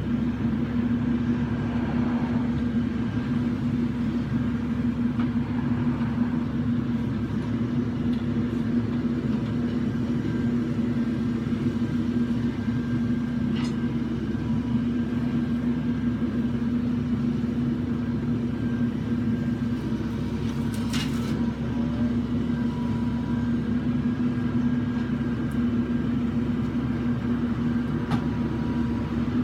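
Claw truck's engine running steadily under load, with a faint steady whine over the drone and a brief clatter about 21 seconds in.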